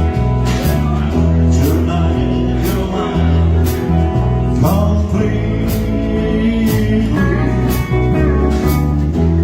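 Band playing 1950s-style rock and roll: a bass line under guitar and drums, with a drum hit about once a second.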